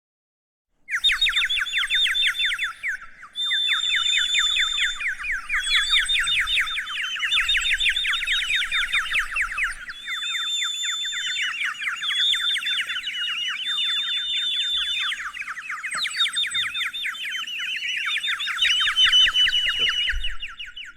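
Small songbirds singing in a fast, unbroken trill of quick falling notes, with now and then a held whistled note. It starts about a second in and stops suddenly near the end.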